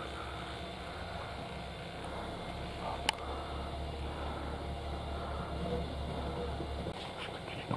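Steady low hum of an Iga Railway electric train car's onboard equipment, heard inside the carriage. There is one sharp click about three seconds in, and the deepest part of the hum drops away near the end.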